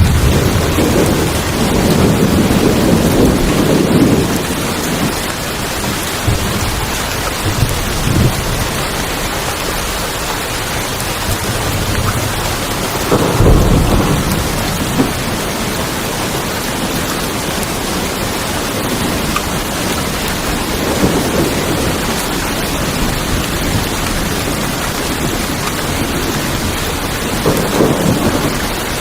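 Steady heavy rain falling on tin roofs, with rolls of thunder: a long rumble in the first few seconds, another about halfway through, and shorter ones later on.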